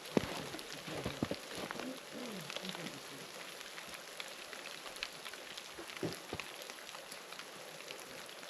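Steady rain pattering, with scattered drops ticking close by and a few soft knocks in the first second.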